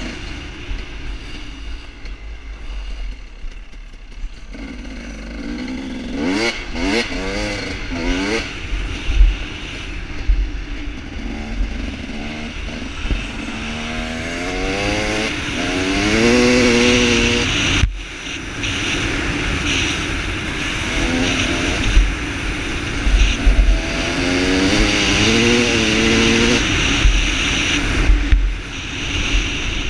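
KTM dirt bike engine ridden hard, revving up and easing off in repeated climbing sweeps as it accelerates through the gears. Wind rumbles on the microphone.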